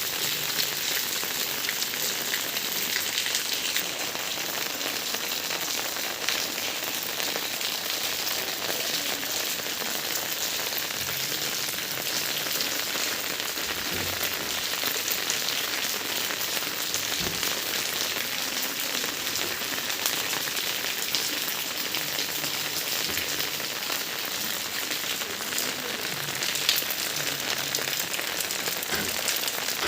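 Rain falling steadily: an even, continuous hiss of drops with no letup.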